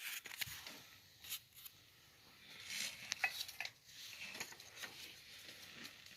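Faint handling sounds: scattered small clicks and soft rustling, typical of a name slip being drawn from a container and unfolded.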